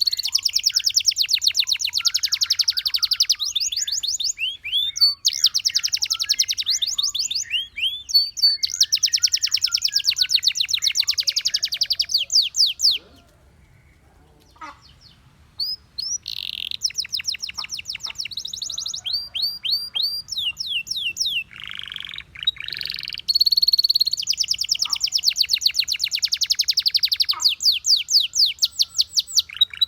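Domestic canary singing: long, rapid trills of quickly repeated high notes with sweeping whistled glides between them, broken by a pause of about three seconds midway.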